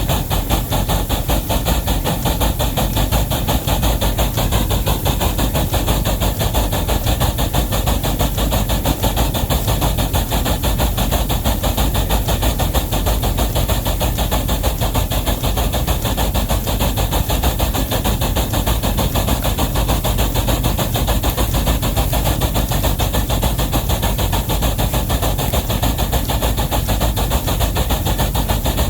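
Steam locomotive working a heavy train, with a steady, rapid rhythmic beat that holds throughout.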